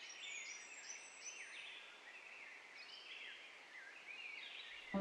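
Faint birdsong: several small birds chirping in quick, swooping calls over a soft steady hiss.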